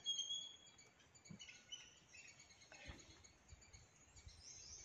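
Faint bird chirps, a few short high calls with a quicker run of notes near the end, and a soft knock about three seconds in.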